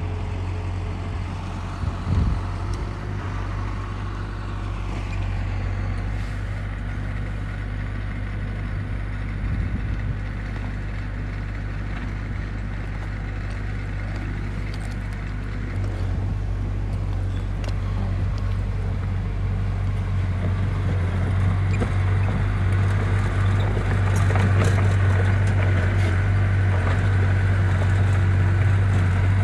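Diesel engine of a heavy construction machine running steadily with a deep low hum, growing somewhat louder from about halfway through.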